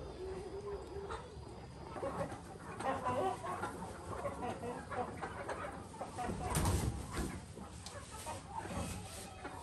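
Chickens clucking, with many short calls overlapping, and one dull low thump about two-thirds of the way through.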